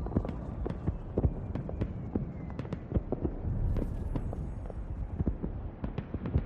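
Low, uneven thumping and rumble with scattered sharp clicks and no clear melody or voice.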